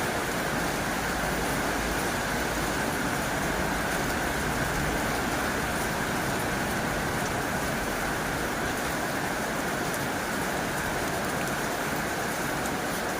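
Heavy rain falling steadily on a tin roof: a dense, even patter with faint sharper drop ticks.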